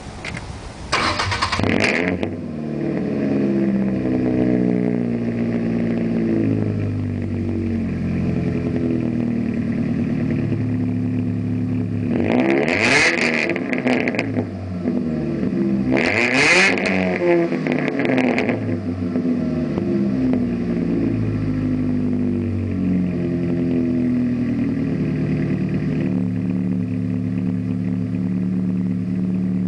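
Ford Ranger's 2.3-litre four-cylinder engine starting about a second in, then idling loudly through a Cherry Bomb Extreme single-in dual-out muffler with one catalytic converter removed. It is revved up and back down twice near the middle, then settles back to idle.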